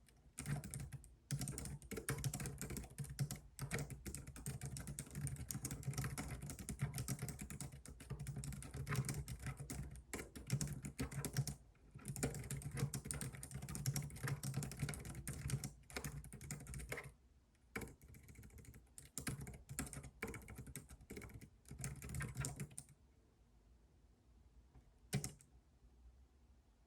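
Fast typing on a computer keyboard, a rapid stream of key clicks with short pauses. It thins out after about 17 s and stops about 23 s in, with one more keystroke a couple of seconds later.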